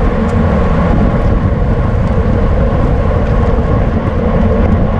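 Steady rush of wind and road noise at racing speed on a bicycle-mounted camera's microphone, with a faint steady hum under it.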